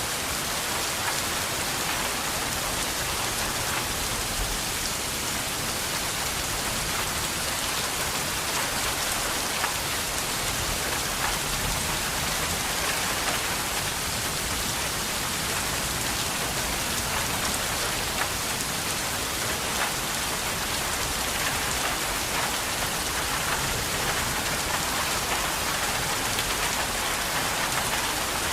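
Steady rain falling: an even, unbroken hiss with many small drop ticks scattered through it.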